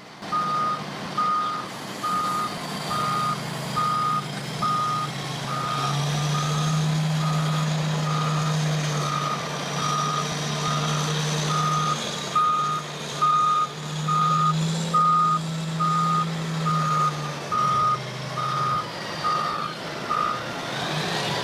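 Caterpillar 990 wheel loader's reversing alarm beeping about once a second, over its diesel engine. The engine revs up twice under load, and the beeping stops near the end.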